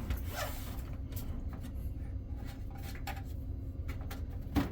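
Handling sounds of a PC case's back side panel being taken off: faint light clicks and rubbing over a steady low hum, with one sharp knock near the end.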